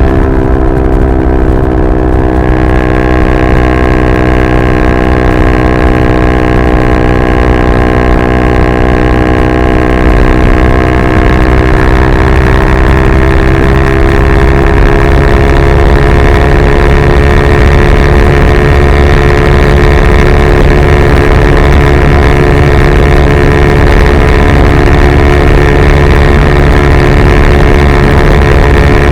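Yamaha R125's single-cylinder four-stroke engine running loud through a Dominator GP straight-pipe exhaust, holding fairly steady revs with only a slight drift in pitch and getting a little louder about eleven seconds in.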